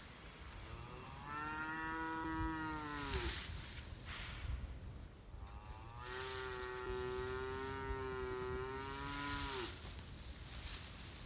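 Cattle mooing: two long, drawn-out calls, the second one longer.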